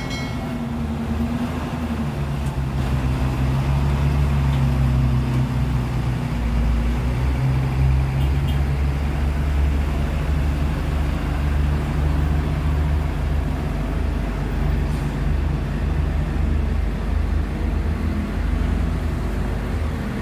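Heavy diesel truck engine running at low speed close by, a steady low drone that shifts a little in pitch, over road traffic noise.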